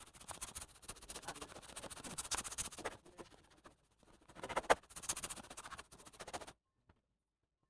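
Dense rustling and clicking from hands handling laptop parts, with one louder click about four and a half seconds in, cutting off suddenly near the end.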